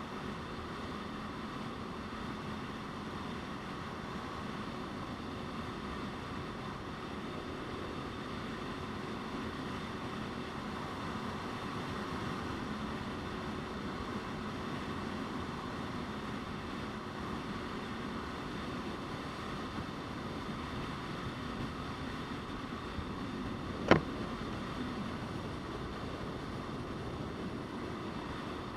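Motorcycle on the move: steady wind and road noise over a faint engine hum, with a single sharp click near the end.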